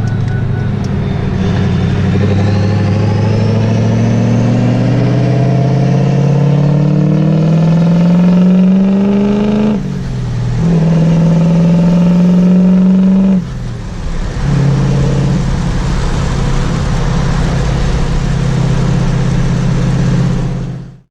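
Vehicle engine accelerating, its pitch climbing slowly for about ten seconds. The pitch drops sharply at a gear change, holds steady, dips again about fourteen seconds in, then runs steady until it cuts off abruptly near the end.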